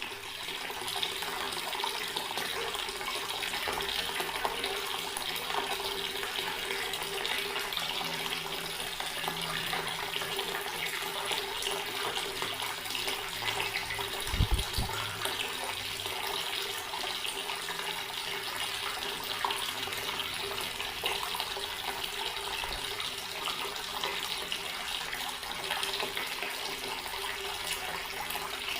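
Water running steadily from a tap, an even rushing splash with a faint steady hum beneath it. A brief low thump about halfway through.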